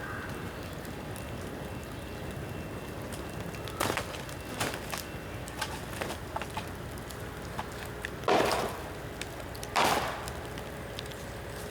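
Bamboo bonfire burning with a steady rush and scattered crackles, broken by three sharp pops about four, eight and ten seconds in, the last two the loudest: heated bamboo bursting in the fire.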